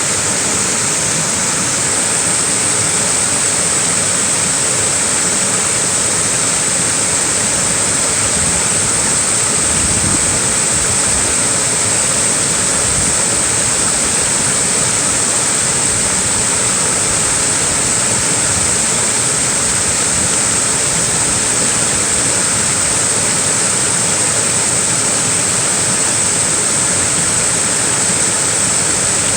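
Small waterfall rushing steadily, a dense even hiss of falling water with a bright splashing edge.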